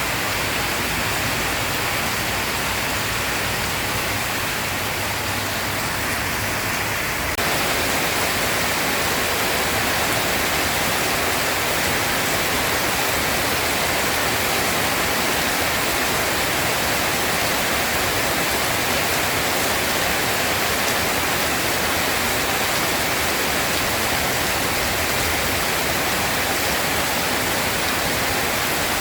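Steady heavy rain, an even rushing hiss with no thunder. About seven seconds in the sound changes abruptly and becomes slightly louder, as one rain recording gives way to another.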